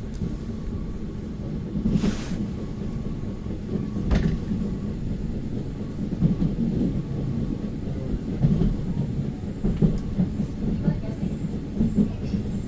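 Gyeong-ui–Jungang Line electric commuter train running, heard from inside the car: a steady low rumble with the clatter of wheels on the rails. Two sharp knocks come about two and four seconds in.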